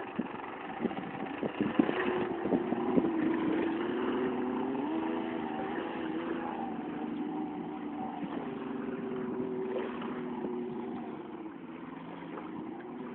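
Jet ski engine running under way, its pitch stepping up and down with the throttle, with scattered short thumps.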